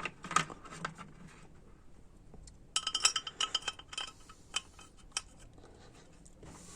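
Small steel valve parts clinking against a transmission valve body as they are handled and set into their bores: a quick run of light, ringing metallic clinks about three seconds in, then a few single clicks.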